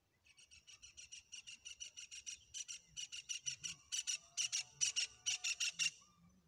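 A bird calling: a long series of short, high notes repeated about six to seven times a second, growing louder and slightly slower before stopping near the end.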